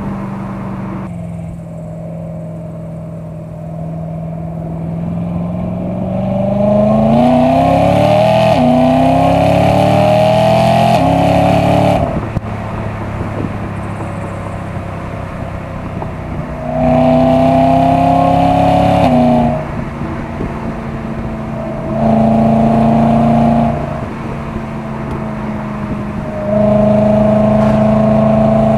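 BMW E92 M3's naturally aspirated S65 V8 with M Performance exhaust, heard from outside the car while driving. It runs steadily, then pulls hard with the pitch rising through two quick upshifts, eases off about twelve seconds in, and then gives three shorter, louder pulls at higher revs.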